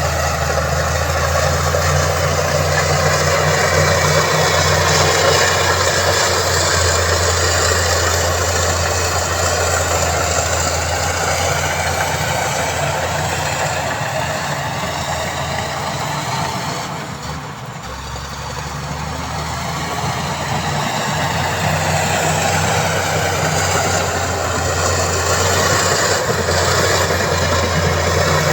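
Heavy diesel engine of earthmoving machinery running steadily under load, easing off briefly about two-thirds of the way through and then building back up.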